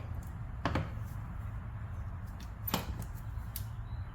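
A few sharp metal clicks and knocks from working on the turbo in the engine bay, over a steady low hum.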